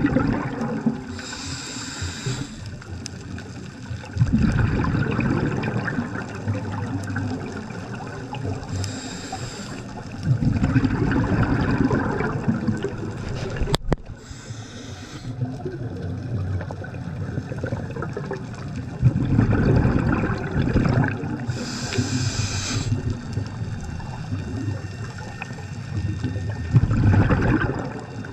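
Scuba diver breathing through a regulator underwater: a short hissing inhale, then a louder gurgling rush of exhaled bubbles, repeating about four times.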